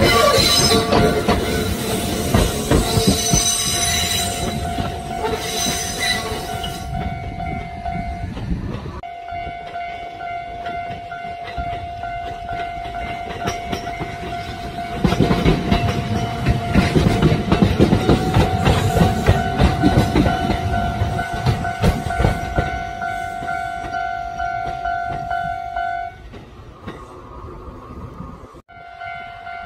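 Kintetsu electric trains passing at track level, wheels clattering over the rail joints, with a steady high tone running under most of it. The sound breaks off sharply about 9 seconds in and again near the end, and swells louder again about halfway through.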